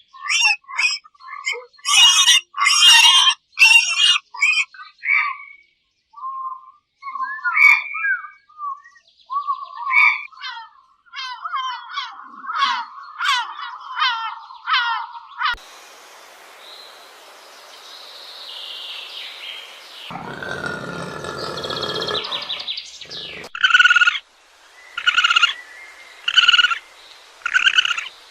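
Animal calls from several different animals in turn: quick chirping calls first, then a change about halfway to a different animal's calls with a deeper sound, then five evenly spaced calls near the end.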